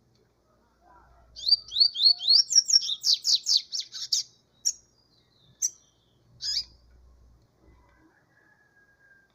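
Double-collared seedeater (coleiro) singing: a fast run of high chirping notes lasting about three seconds, followed by three single short notes.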